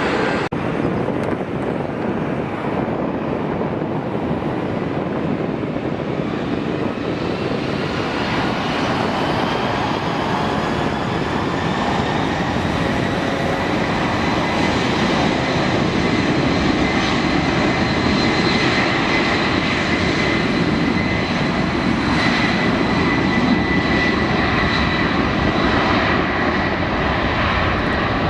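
Jet airliner engines running with a loud, steady rushing roar; a whine rises over the first half and then holds high.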